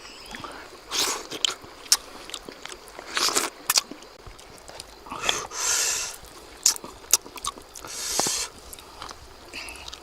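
A person eating fish cooked on a rock, close up: chewing with sharp wet mouth clicks, and a short noisy burst every couple of seconds.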